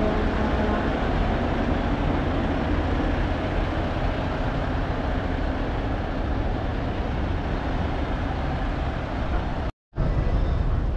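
Steady low rumble of idling diesel engines, broken by a sudden dropout to silence for a split second near the end.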